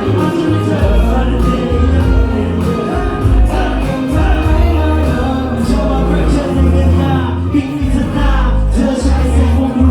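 Live pop-rock band playing loudly, with a heavy bass line, drums and cymbals, and singing over it.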